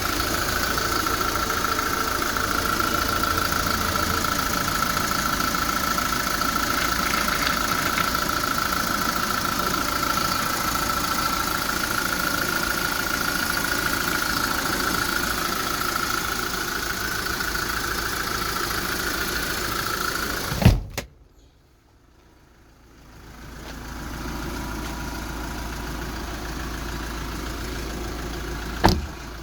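Kia Bongo III's 3.0-litre diesel engine idling steadily, with a constant high whine over it. About two-thirds through, a sharp click comes and the sound cuts out almost to silence. A quieter steady hum then returns, and another sharp click comes near the end.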